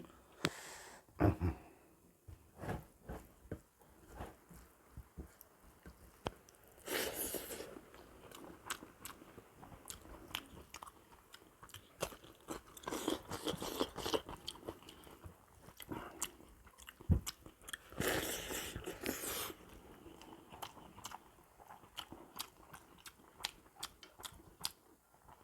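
A person chewing and biting through a meal of buffalo trotters, rice and raw vegetables close to the microphone: irregular crunches and mouth clicks, with two longer noisy bursts about seven and eighteen seconds in.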